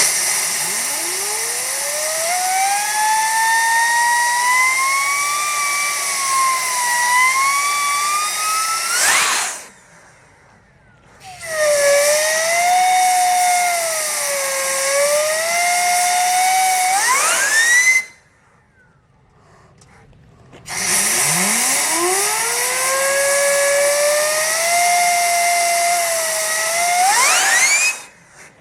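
Homemade gas turbine running on wood-fire gas: a loud rushing hiss under a turbine whine that rises as it spools up and wavers in pitch. This comes three times, each stretch ending in a sharp climb in pitch and an abrupt cut-off, with brief quiet between.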